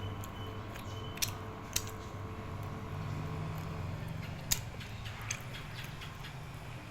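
A steady low hum with a few sharp clicks or taps, the loudest about four and a half seconds in.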